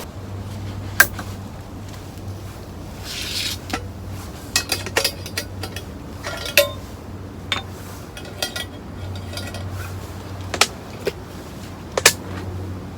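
Scattered light clinks and clicks of small hard objects such as utensils or camping gear being handled, irregular, over a faint low steady hum.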